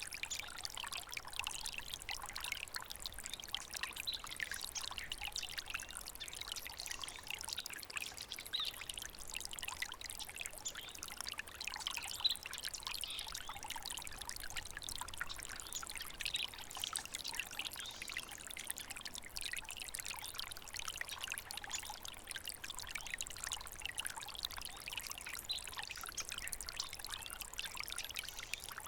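Small stream of water trickling and babbling steadily over stones, a continuous bright splashing with no pauses.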